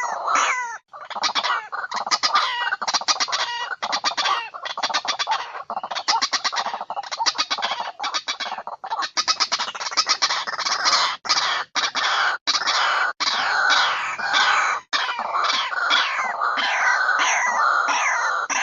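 Chickens clucking and cackling, many loud calls overlapping with rapid repeated notes, broken by a few abrupt cuts.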